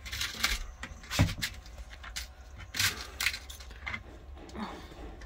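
Small wiring-connector parts being handled, with a few sharp clicks and light jingling rattles.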